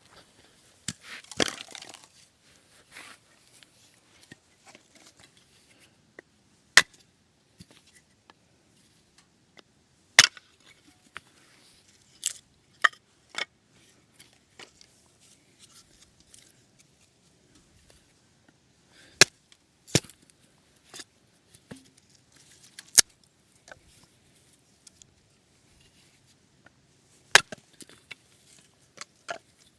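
Sharp knocks and cracks, about a dozen at irregular intervals with quiet gaps of several seconds between them.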